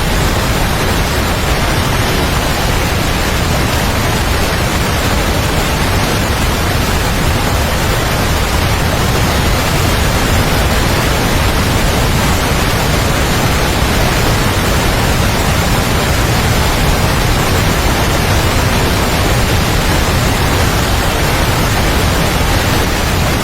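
Waterfall rushing close by, a loud, steady, unbroken roar of falling water.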